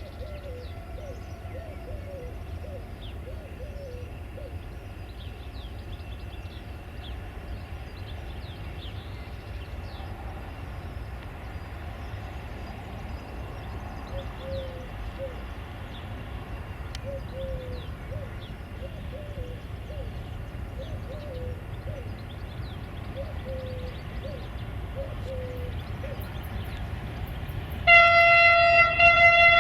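Birds calling over a low outdoor rumble, then near the end the class 480 electric locomotive's air horn sounds loudly in one steady multi-tone chord, held to the end.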